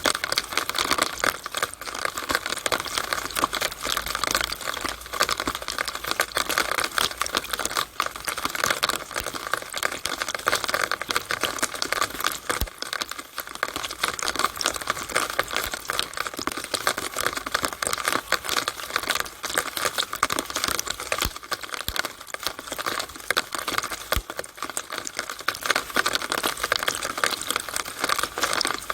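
Rainwater from a downspout during rain: a steady, dense crackle of splashing and dripping water.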